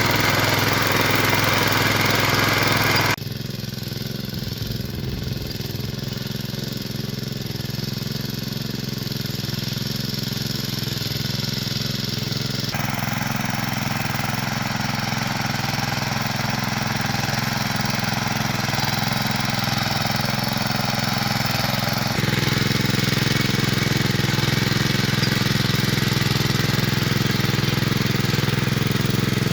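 Small engine of a walk-behind cultivator running steadily. The sound shifts abruptly about three seconds in, dropping somewhat in level, changes again around the middle, and comes back louder a little over twenty seconds in.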